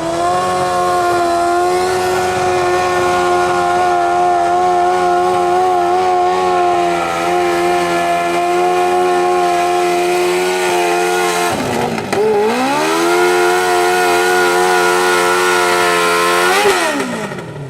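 Modified pulling lawn tractor's 1000 cc Kawasaki engine running at high revs under load during a pull, holding a steady note. About twelve seconds in the revs dip sharply and climb back, and near the end they fall away as the pull ends.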